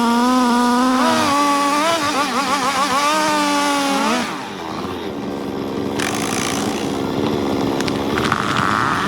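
Chainsaw running at high revs, its pitch wavering under load as it cuts. About four seconds in the pitch drops sharply and the saw runs on more quietly.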